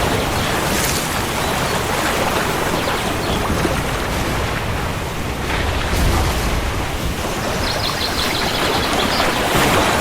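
Steady heavy rain falling, with a low rumble of thunder swelling about six seconds in.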